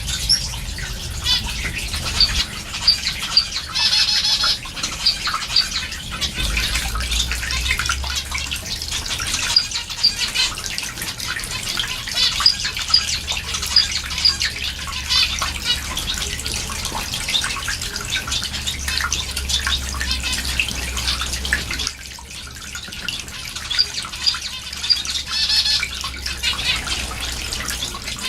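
A mixed flock of small cage finches (zebra finches, Bengalese finches and Gouldian finches) chirping with many short, repeated high calls, among scattered clicks and rustles. A low steady hum runs underneath.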